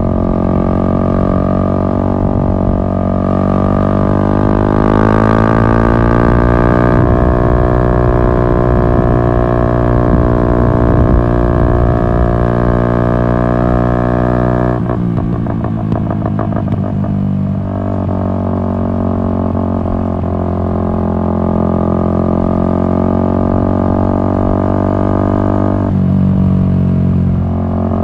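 Yamaha MT-125's single-cylinder four-stroke engine through an Akrapovic exhaust, under way. The revs climb from about three seconds in and hold steady, then drop about halfway through with a rough, uneven stretch. They settle at a steadier, lower note, with another change near the end.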